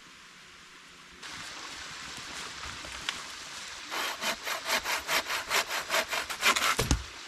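A hand saw cutting through wood with even back-and-forth strokes, about three to four a second, starting a few seconds in over a steady hiss of running water. The wood is being cut to start a campfire.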